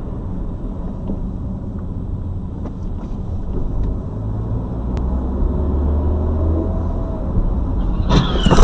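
Steady engine and road rumble inside a car, then about 8 seconds in a sudden loud crash as an oncoming car strikes the car head-on, glancing off it.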